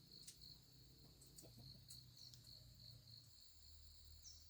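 Faint insects chirping: a steady high-pitched pulse repeating about four times a second, with a short falling chirp near the end.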